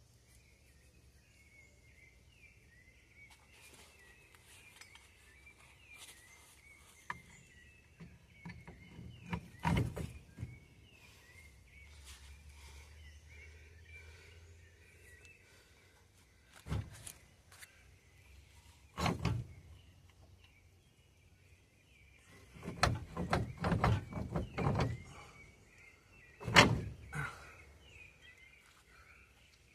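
Scattered sharp knocks and clanks of tools and parts being handled while working on a VW Kombi's rear wheel hub, single hits and short clusters, the loudest a few near the end. Birds chirp steadily in the background.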